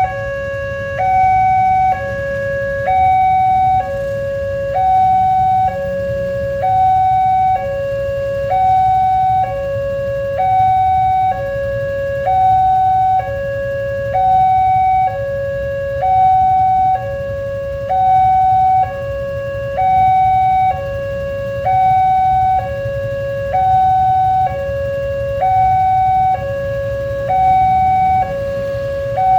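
Railway level-crossing warning alarm sounding a two-tone hi-lo signal, switching between a lower and a higher tone about once a second. It is the crossing's alarm warning that a train is coming. A low rumble runs underneath.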